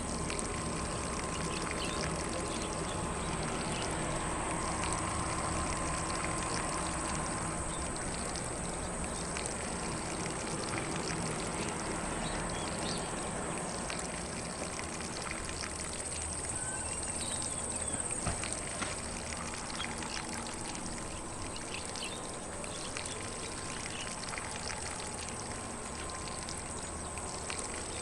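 Lawn sprinkler spraying water across grass, a steady rushing hiss of spray, with faint birdsong.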